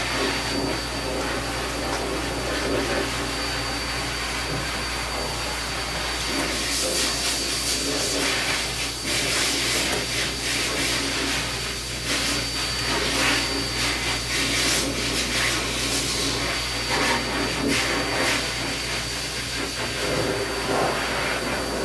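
Pet grooming dryer blowing air steadily, its rush swelling and fading as it is moved over the coat, with a faint steady whine running through it.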